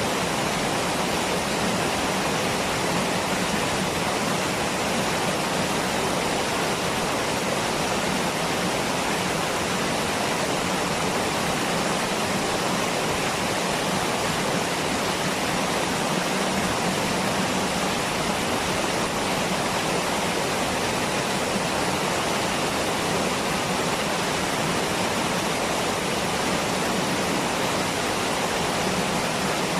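Waterfall: water falling and splashing in a steady, even rush with no breaks or single splashes standing out.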